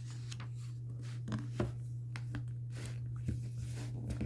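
Faint paper rustles and a few soft taps of handling a book, over a steady low electrical hum.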